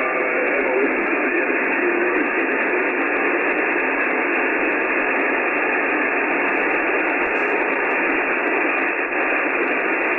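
SSB receiver hiss from an Icom IC-9700 on 70 cm, steady and held within the narrow voice passband, while listening for the other station. A weak, wavering voice is barely traceable in the hiss during the first couple of seconds, then only noise.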